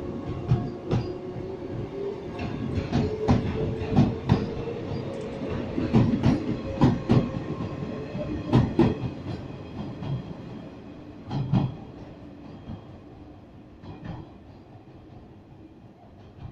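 Three 381-series cars hauled by a Kumoya 145 rolling past and pulling away, their wheels clacking in pairs over rail joints over a steady hum. The sound grows fainter as the train recedes.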